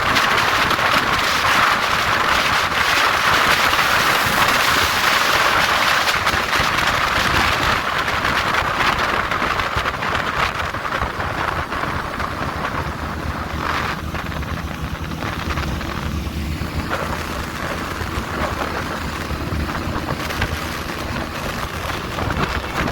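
Wind rushing over the microphone of a moving motorcycle, a loud steady roar. About halfway through it eases a little and a faint engine hum comes through beneath it.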